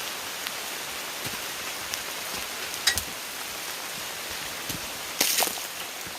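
Heavy rain falling, a steady hiss of drops on the surfaces around. A sharp knock sounds about three seconds in, and a louder brief clatter a little after five seconds.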